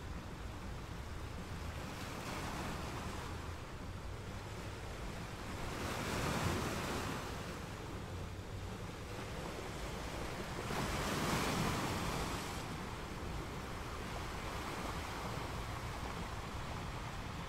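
Steady rushing and churning of a reef aquarium's water circulation, swelling twice as the flow surges.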